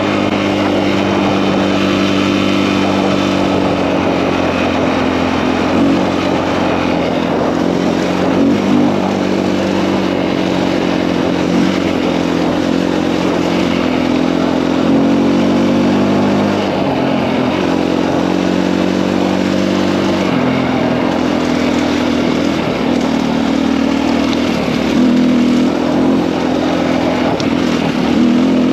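KTM EXC-F enduro bike's single-cylinder four-stroke engine, bored out with a 280 big bore kit, running at a steady moderate throttle while riding. Its pitch dips and comes back up several times as the throttle eases and opens again.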